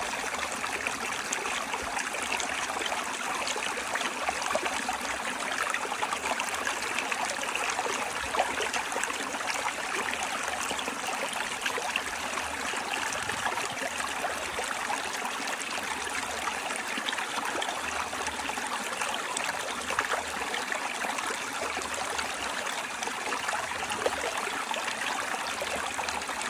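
River water flowing and rushing over rocks in a steady, continuous wash.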